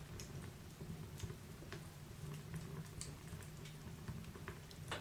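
Wood fire crackling faintly in a fireplace: scattered, irregular small pops and ticks over a low steady hum.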